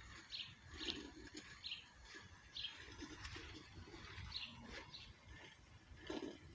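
Faint, scattered chirps of a small songbird, short high notes every half second to a second.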